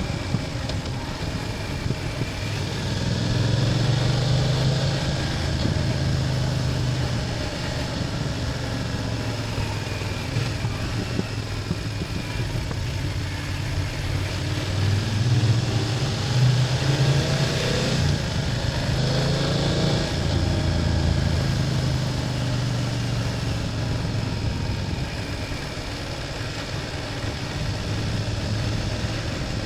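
BMW F800GS's 798 cc parallel-twin engine running while the motorcycle is ridden. The engine note rises with the throttle about three seconds in and again around fifteen seconds, then eases off, over a steady background of air rush.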